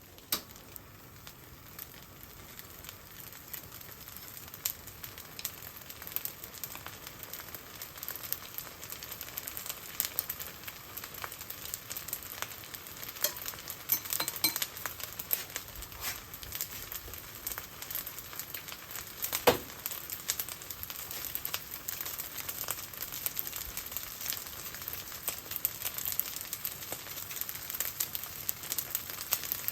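Fried rice sizzling in a hot pan as it is stirred, the sizzle building over the first few seconds, with frequent sharp clicks of a utensil against the pan and one louder clack about twenty seconds in.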